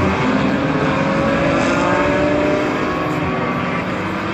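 GT racing car engines at full throttle on track, their pitch climbing steadily as they accelerate, easing slightly about two and a half seconds in.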